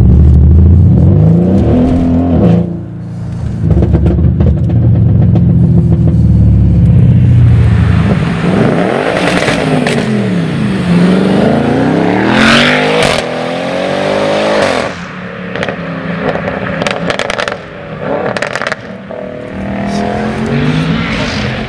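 Mercedes-Benz E500 twin-turbo V8 engine heard from inside the cabin: a loud steady drone under load for the first several seconds, then its pitch sweeping down and up as it revs, with sharp cracks of exhaust pops and bangs in the second half.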